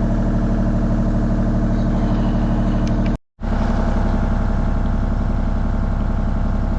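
Mini excavator's diesel engine running steadily, heard from the operator's seat. The sound cuts out completely for a moment about three seconds in, then the engine picks up again.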